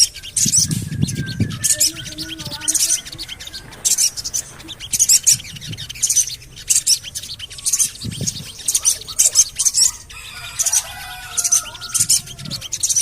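Sogon bird calling: sharp, high 'cuit' chips repeated about three times a second, with a softer warble joining in near the end. Low dull thuds come about a second in and again around eight seconds.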